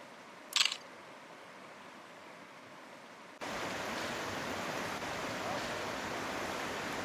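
Camera shutter clicking once about half a second in, over the steady rush of a river, which becomes suddenly louder about three and a half seconds in.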